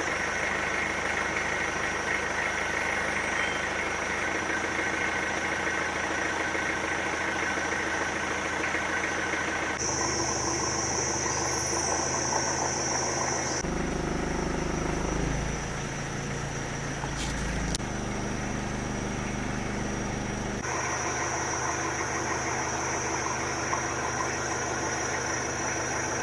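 A steady engine hum, like a vehicle idling or running. The character of the sound changes abruptly several times, about 10, 14, 18 and 21 seconds in.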